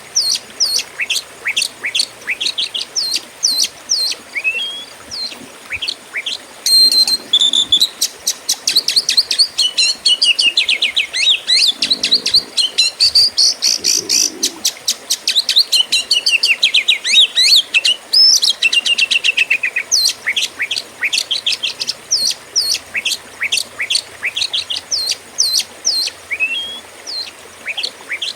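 Oriental magpie-robin (kacer) singing a fighting song: loud strings of sharp, downward-slurred chirps that quicken into a dense, rapid run of notes midway, then loosen back into separate chirps.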